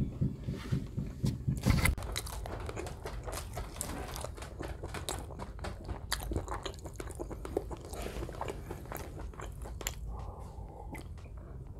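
Close-miked chewing of a mouthful of rice and stewed meat, with wet mouth clicks and lip smacks, starting with a low hum in the first couple of seconds. Near the end come sips from a glass of juice.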